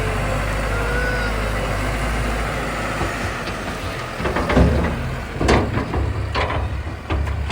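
Large farm tractor's diesel engine running steadily, then from about three seconds in a series of irregular crunching scrapes as the front loader bucket digs into and pushes soft gravel.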